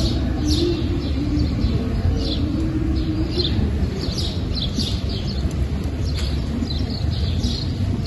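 Small birds chirping, many short high chirps throughout, over a steady low rumble.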